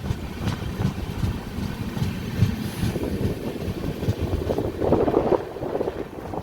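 Rajdhani Express passenger coach running on the rails: a steady low rumble of wheels and running gear with irregular knocks, swelling louder a little after the middle.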